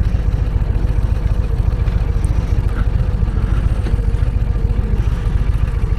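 Harley-Davidson V-twin motorcycle engine running steadily, its exhaust a rapid even pulse.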